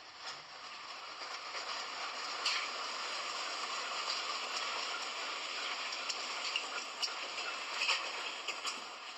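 Train running along the track: a steady hiss of wheel and rail noise that builds over the first couple of seconds and then holds, with scattered light clicks.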